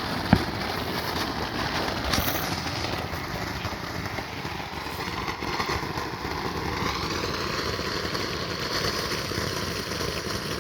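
Ground fountain firework spraying sparks with a steady hiss, with one sharp pop just after it starts.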